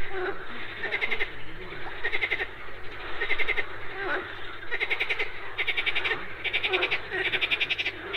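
A chorus of frogs calling at a lakeshore. Rapid pulsed calls repeat about once a second, over lower croaks.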